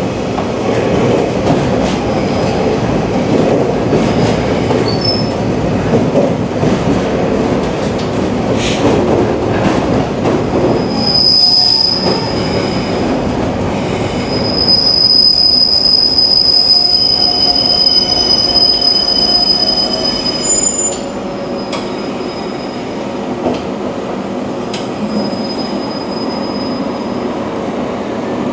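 485-series electric train's wheels and running gear rumbling as it slows into a station, heard from inside the carriage. A high-pitched wheel squeal comes briefly about 11 seconds in and again for about six seconds from about 14 seconds, then the running sound drops quieter as the train draws to a stop.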